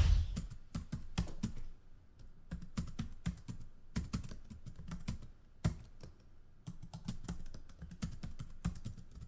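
Irregular light clicks and taps, several a second, uneven in strength.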